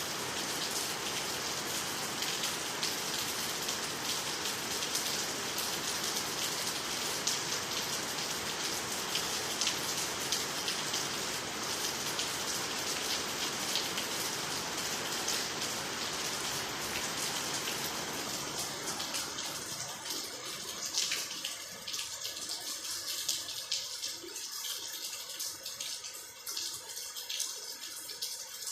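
Rain falling on water, trees and the ground, steady and even at first. About two-thirds of the way through it thins to lighter rain with separate drops and drips standing out.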